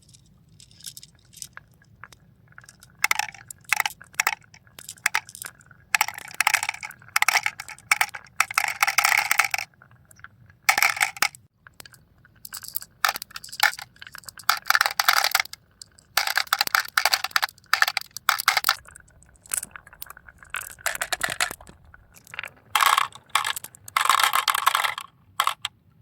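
Irregular bursts of clattering and crunching from small hard objects being moved, with short pauses between them.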